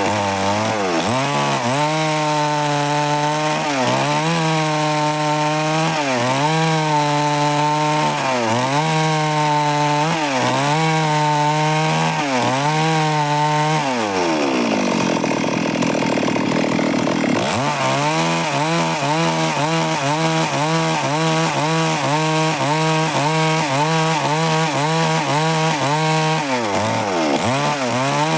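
Stihl MS 382 two-stroke chainsaw running at high revs while sawing wood, its pitch dipping and recovering every second or two. About halfway through the revs fall away to a low idle for a few seconds, then climb back up, with quicker dips after that.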